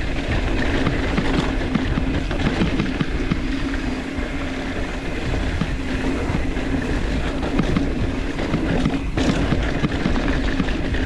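Mountain bike rolling down a rough, loose dirt trail: tyres crunching over rocks and gravel, with a steady rattle and rapid knocks from the bike.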